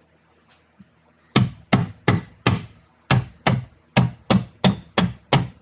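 Steady hammer blows, about two or three a second, tapping a part into an NP242 transfer case. They begin about a second in, and each strike rings briefly.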